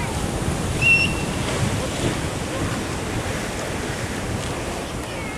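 Ocean surf washing steadily, with wind rumbling on the microphone. A single short, high chirp sounds about a second in.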